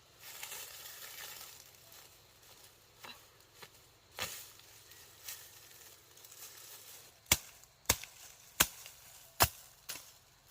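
Rustling and an odd knock, then about two-thirds of the way in four sharp, loud strikes in quick succession and a weaker fifth: a tool striking wood, as in chopping.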